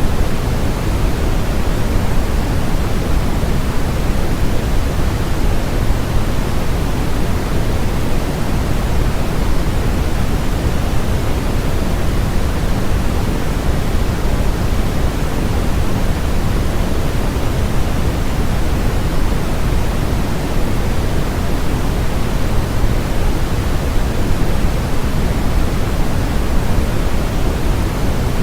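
Continuous synthetic noise from a sleep-sound track, a steady hiss that never changes. It is heavier in the low end than in the highs, more like pink noise than flat white noise.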